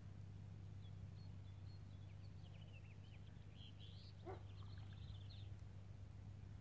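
Faint bird chirping: a run of short, high chirps and trills from about a second in until near the end, over a steady low hum.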